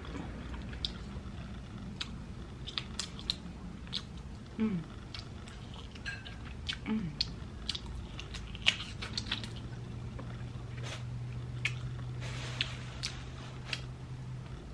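Close-miked eating of seafood boil: scattered sharp clicks and crunches of biting and chewing, with two brief low voice-like sounds in the first half. A steady low hum sets in a little past the middle and runs under the chewing.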